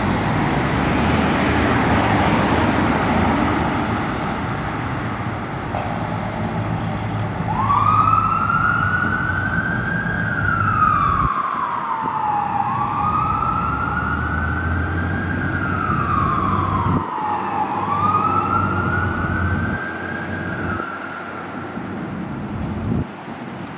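Fire truck responding: its diesel engine runs loudly at first, then its siren wails, rising and falling slowly three times.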